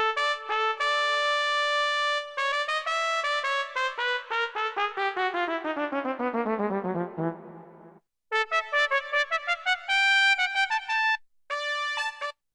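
Roland XP-80 synthesizer playing a factory brass-style preset: a held chord, then a long run of quick notes falling steadily in pitch, a brief pause about eight seconds in, and then short stabbing chords.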